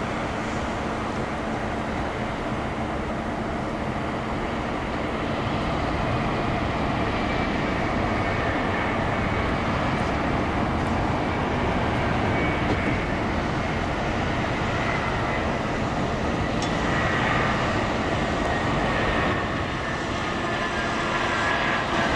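Boeing 767-300ER's jet engines on approach to land: a steady low rumble, with a high whine that comes in about halfway through, grows louder and slides slightly down in pitch.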